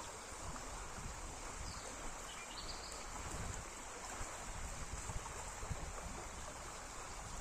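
Steady rushing of river water, with wind buffeting the microphone in low uneven gusts.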